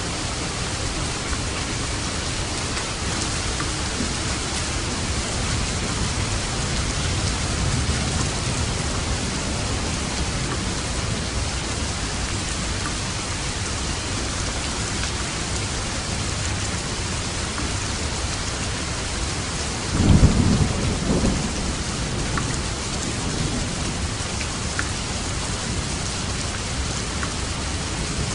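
Steady heavy rain falling, with a low roll of thunder about a third of the way in and a louder thunder crack and rumble about two-thirds of the way in.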